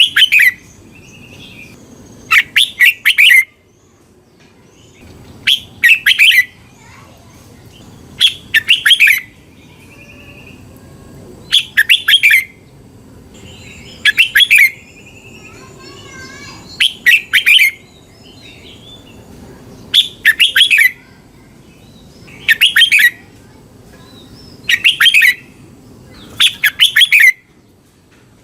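Red-whiskered bulbul singing: a short, loud phrase of several quick whistled notes, repeated about every two and a half seconds. Fainter chirps come in some of the gaps.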